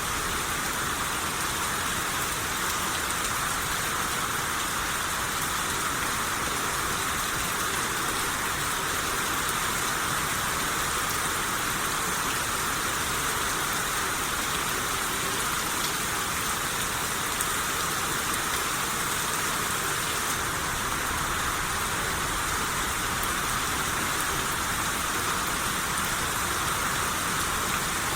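Steady rain shower falling and pattering on surfaces, an even hiss with no breaks.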